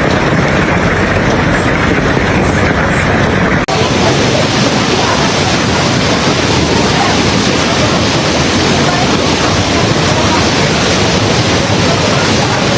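A heavy downpour of rain mixed with hail, a dense steady hiss. About four seconds in, the sound cuts abruptly to another stretch of the same downpour, brighter and fuller in the highs.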